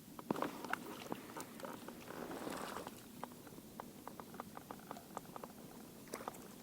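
Faint rustling with a run of small, irregular clicks, densest in the middle of the stretch.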